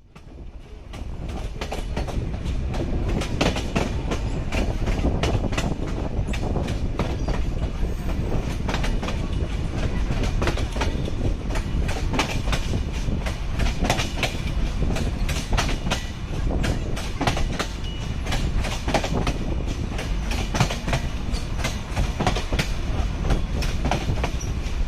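A moving train: a steady low rumble with the wheels clattering in quick, irregular clacks over the rail joints. It fades in over the first second or two.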